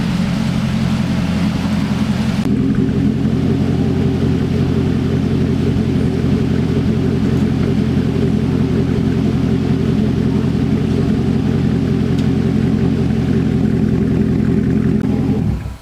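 Corvette Stingray's V8 engine idling steadily, then stopping suddenly near the end.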